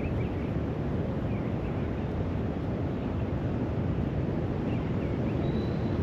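Steady low wind rumble on the microphone, with faint short bird chirps every second or two.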